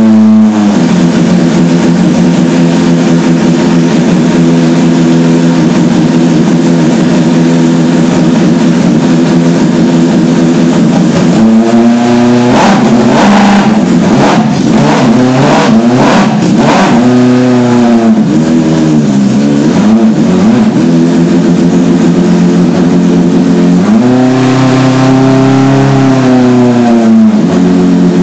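1.2-litre V8 engine on a test stand idling steadily, then revved with a quick series of throttle blips about halfway through and a rev held for a few seconds near the end before it drops back to idle.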